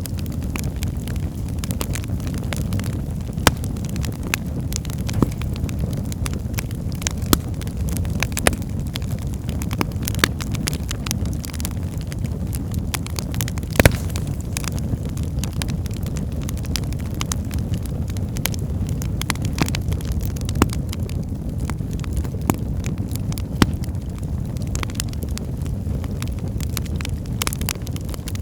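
Wood fire burning in a fireplace: a steady low rumble of the flames with frequent sharp crackles and pops, the loudest pop about halfway through.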